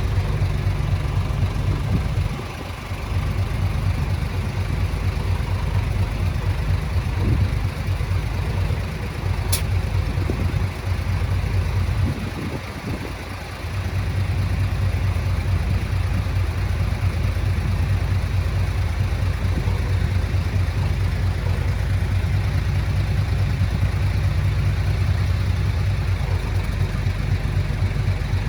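Diesel engine of a Komatsu D20A bulldozer running steadily at work, its note dropping briefly about two seconds in and again around twelve seconds in. A short sharp click is heard around nine and a half seconds in.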